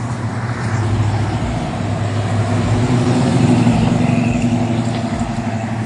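A vehicle engine running steadily at idle, a low even hum.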